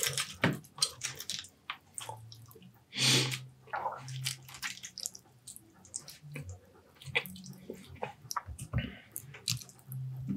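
Close-miked wet chewing and lip-smacking of a person eating fish and rice: many short clicks and smacks, a louder wet slurping burst about three seconds in, and a few brief low closed-mouth hums.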